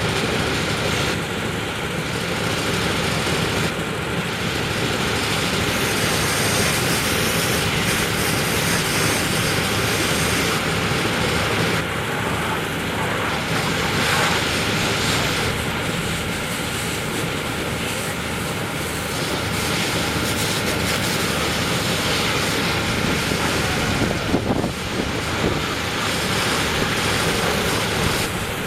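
Steady rush of water sprayed from fire-company hoses onto a mud truck, with vehicle engines running underneath.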